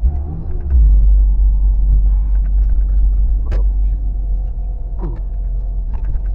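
Steady low rumble of a car driving on the road, with two sharp clicks in the middle.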